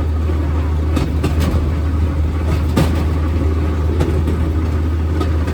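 Rail speeder riding along the track: a steady rumble of motor and wheels on the rails, with scattered sharp clicks and knocks.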